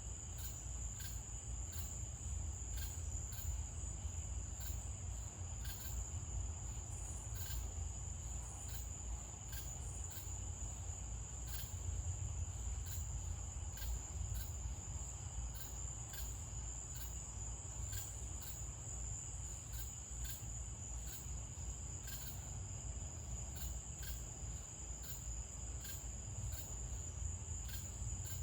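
Night insects, crickets, calling: a steady high-pitched trill with a separate chirp repeating about every two-thirds of a second, over a low rumble.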